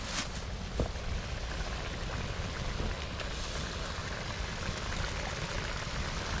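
Stroganoff sizzling and simmering in a cast-iron Dutch oven over the campfire: a steady hiss with a few light clicks.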